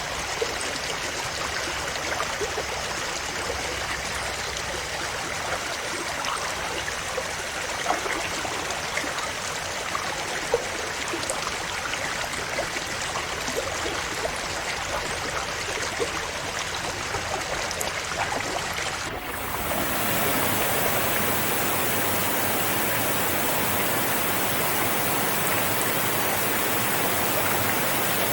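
River water flowing over rocks, a steady rush with small splashes and gurgles. About two-thirds of the way through it changes abruptly to a denser, brighter, smoother rush of water, as if a different stretch of water takes over.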